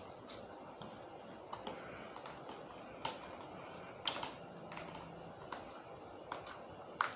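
Eating sounds close to the microphone: soft, irregular mouth clicks and smacks of chewing, roughly one a second.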